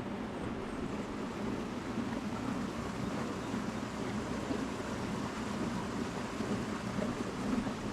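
Steady rush of running water flowing through the hatchery's spring-fed channels.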